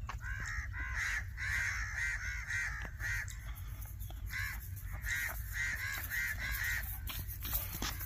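Birds calling over and over: short calls coming in quick runs of several at a time.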